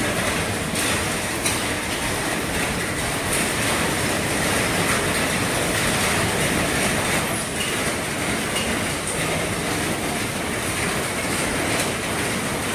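Heavy rain falling steadily on the roof of an RV, a dense even hiss full of small drop ticks.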